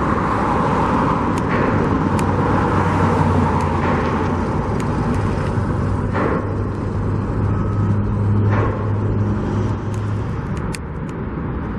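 Motor vehicle noise: a steady low engine hum over a wash of traffic, fading slightly near the end.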